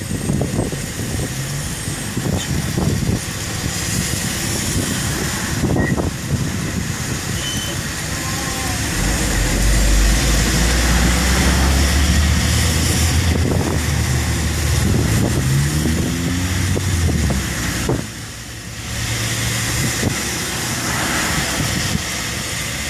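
Steady storm rain hiss, with a motor vehicle's engine running loudly through the middle and rising in pitch as it accelerates away, before the rain alone continues.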